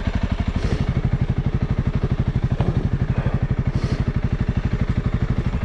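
Honda CRF300L's single-cylinder engine running at a steady idle with an even, rapid thump. Two brief hisses come over it, about a second in and near the middle.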